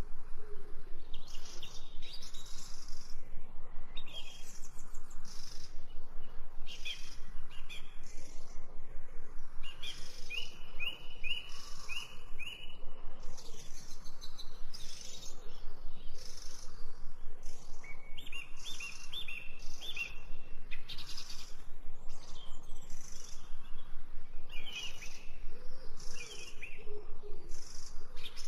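Several wild birds calling and singing, with frequent short high chirps and quick runs of repeated notes. A low cooing call is heard near the start and again near the end.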